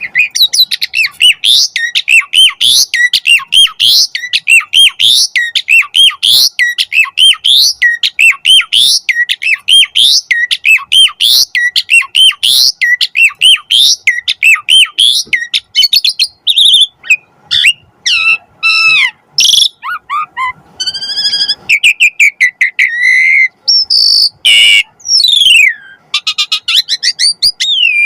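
Asian pied myna (jalak suren) singing loudly: a fast run of repeated rising chirps, about two a second, for the first half. It then turns to a varied string of whistles, trills and harsh notes.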